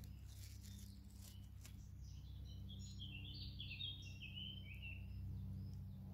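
A songbird sings one short phrase of quick, high stepped notes from about three to five seconds in, over a steady low rumble. A few faint ticks come in the first two seconds.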